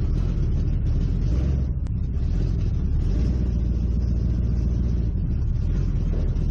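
Race car engine running at low revs, heard from inside the stripped, roll-caged cockpit: a steady deep rumble as the car creeps forward at walking pace.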